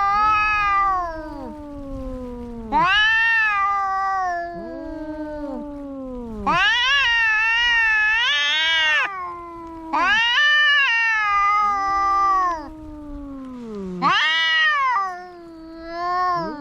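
Cats yowling at each other in a fight standoff: long, wavering, drawn-out calls that rise and fall in pitch, about five in a row, with quieter, lower calls in between.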